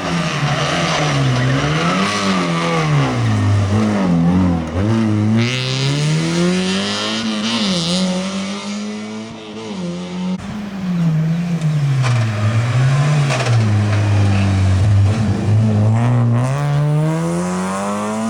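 Rally car engine revving hard, its pitch climbing and dropping again and again through gear changes and lifts off the throttle. About halfway through it cuts abruptly to another stretch of the same.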